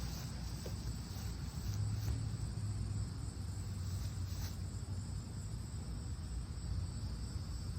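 Steady high-pitched insect chorus of crickets over a low steady rumble, with a couple of faint knocks.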